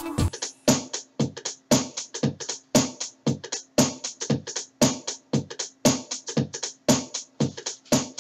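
Electronic background music: a dry drum-machine beat of short, evenly spaced hits, about three to four a second, after the fuller backing drops out just as it begins.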